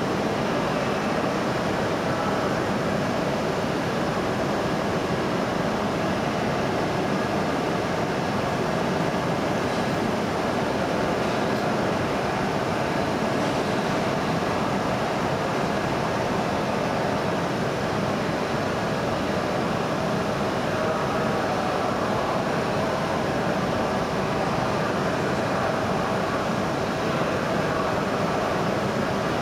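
Steady hum of an E6 series Shinkansen standing at the platform with its onboard equipment and air conditioning running, with a few faint steady tones in it.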